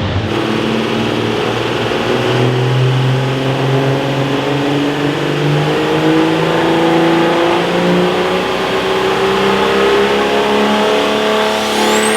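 Loud engine of a pulling truck or tractor running hard under load, its pitch climbing slowly and steadily through the run. A high whine rises steeply near the end.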